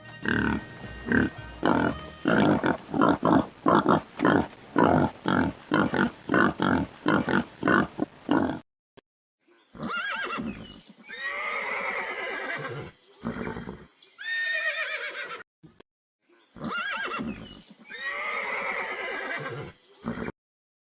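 Horse sounds: a run of short, evenly repeated pulses, about two or three a second. Then, after a brief pause, four or five long whinnies that waver up and down in pitch.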